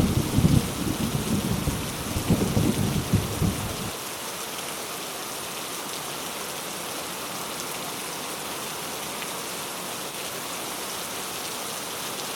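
Heavy rain falling steadily with a low rumble of thunder that stops abruptly about four seconds in. Steady rain hiss follows.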